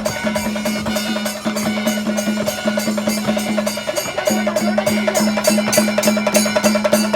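Rhythmic percussion music of the kind played for a Kerala snake boat race, sharp bell-like strokes at about five a second over a steady low tone.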